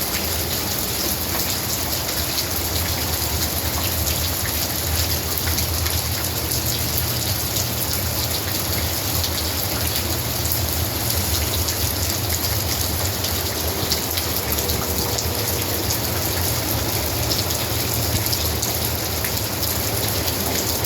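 Steady rain falling, a continuous hiss dotted with many small drop ticks, over a steady low rumble.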